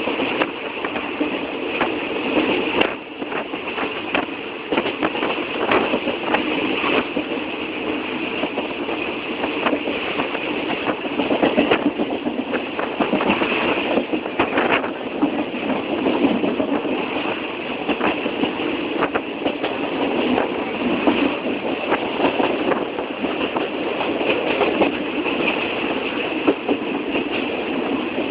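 Passenger train running on the rails: a steady rumbling noise with frequent irregular rattles and clacks.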